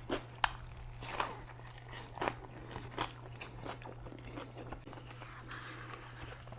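Close-miked eating: crisp bites and crunches scattered through the first few seconds, then softer chewing, over a faint steady low hum.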